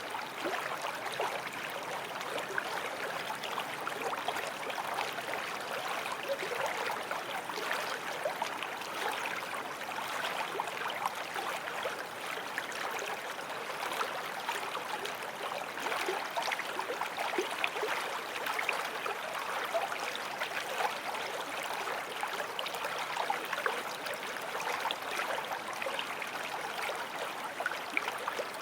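Small forest stream flowing steadily over stones, a continuous babbling and trickling of water.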